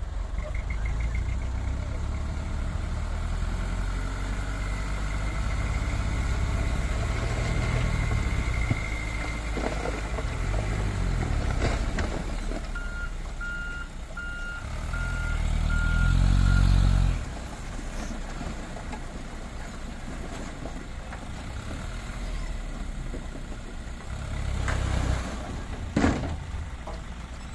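Heavy dump truck's diesel engine running under load, swelling to a hard rev around the middle and then dropping off suddenly, while a reversing alarm beeps in a steady series. A sharp knock near the end.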